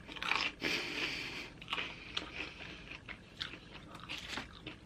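Close-miked chewing of a mouthful of loaded nachos: soft, irregular mouth and jaw sounds with scattered small clicks.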